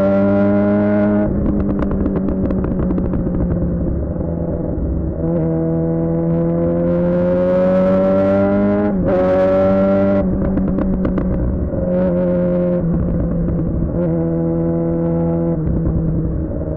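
2007 Suzuki GSX-R600 inline-four through a Yoshimura R11 exhaust, heard on the move. The engine pulls up in pitch under throttle, shifts up about nine seconds in, and falls away as the throttle closes about a second in and again around ten seconds, with shorter steady bursts of throttle after that.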